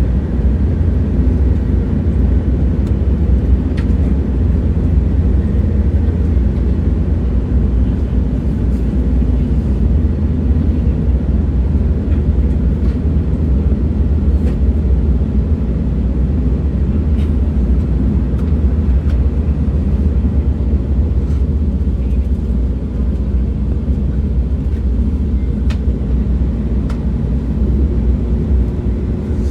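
A moving train: steady low rumble with faint scattered ticks, and a faint steady hum coming in near the end.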